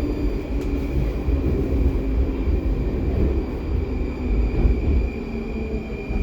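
'Baltiets' metro train running through a tunnel, heard from inside the car: a steady low rumble of wheels on rail, with a whine that falls slowly in pitch as the train slows for the next station.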